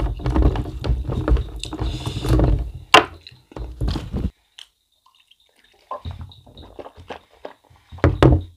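Close-miked wet chewing and mouth sounds of someone eating rice and mutton innards curry by hand, with one sharp click about three seconds in. The sounds stop for nearly two seconds past the middle, then soft, scattered smacking resumes.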